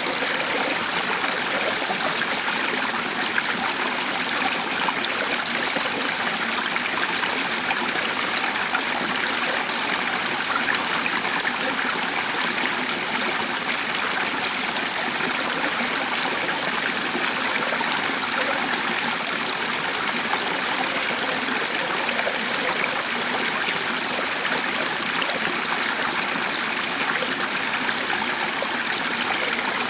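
A stream flowing: a steady, even rush of running water that holds unchanged throughout.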